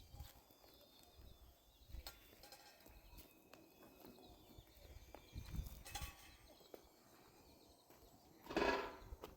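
A short animal call near the end, with scattered light knocks and faint outdoor sounds before it.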